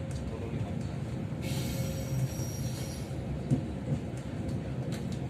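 Economy-class local train heard from on board: a steady low rumble with scattered knocks. A hiss joins in from about a second and a half to three seconds in.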